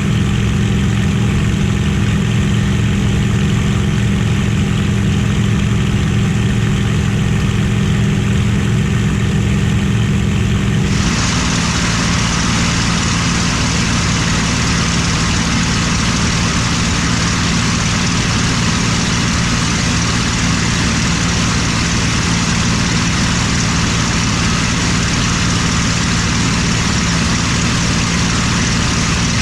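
Rolls-Royce Merlin V12 engine of a warbird fighter running loudly and steadily, a constant drone. About eleven seconds in, the sound changes abruptly and turns brighter and hissier.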